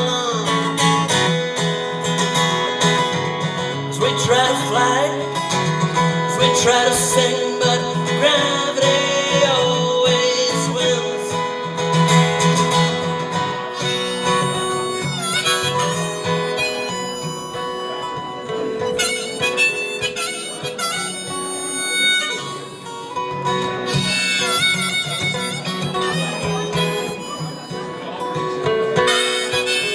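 Live folk song instrumental break: a harmonica playing a melody over strummed acoustic guitar.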